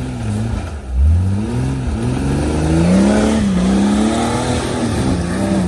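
Off-road rig's engine revving in repeated surges, its pitch climbing and dropping several times, typical of a driver working the throttle to climb a rock obstacle.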